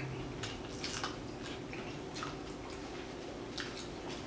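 People chewing carnitas tacos: a scatter of short, wet mouth clicks and squishes.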